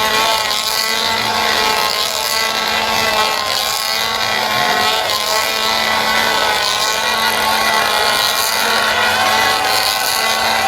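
Several two-stroke chainsaws revved hard at once, their overlapping engine notes wavering up and down continuously.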